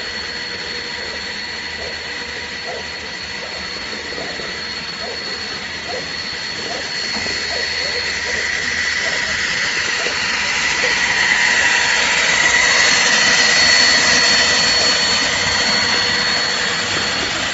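Air-blast blower of a crawler pesticide-spraying robot running: a steady high whine over rushing air, getting louder about halfway through.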